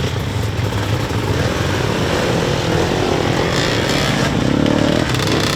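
Motorcycle engine running at low revs, its pitch wavering a little as the rider picks a slow way through an obstacle course.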